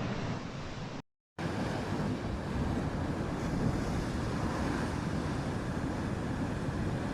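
Rough sea: steady rushing of waves with wind buffeting the microphone, broken by a moment of dead silence about a second in.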